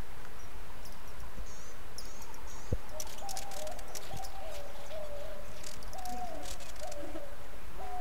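A bird hooting: a series of short, clear, low notes, each dipping slightly at its end, repeating about once or twice a second from about three seconds in. Underneath is a steady hiss with scattered high chips.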